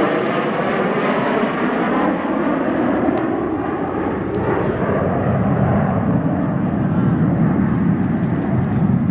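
A USAF Thunderbirds F-16 Fighting Falcon's jet engine heard loud and steady as the fighter flies past, with a falling sweep in pitch during the first two seconds. The sound then settles into a lower, steady rumble.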